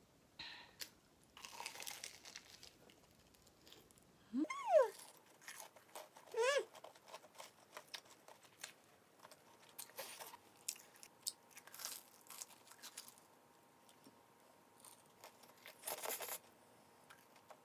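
Close-up crunching and chewing as a battered Korean corn dog (Myungrang hot dog) is bitten into and eaten, in irregular crunchy bites. There are two short pitched sounds that rise and fall, about four and six and a half seconds in.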